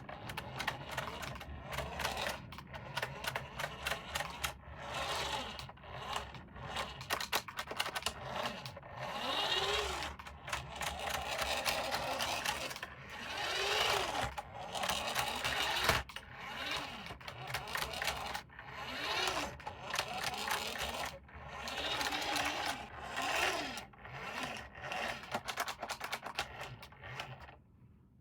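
Small electric motor of a remote-control toy car whirring, its pitch rising and falling again and again as it speeds up and slows down, with many plastic clicks and rattles.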